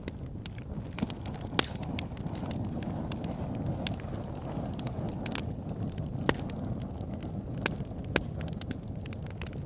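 Wood logs burning in a fireplace, crackling: a steady low rush of flame with irregular sharp pops and snaps, a few of them standing out loud.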